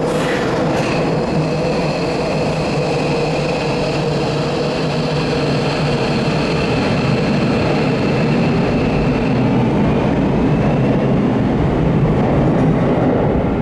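Electric commuter train moving along an underground station platform: a steady rumble with a whine of several held tones from the traction motors.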